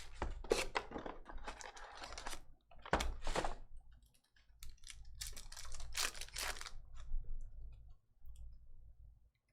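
Bursts of light, quick clicking and rustling, coming in irregular clusters with short pauses between.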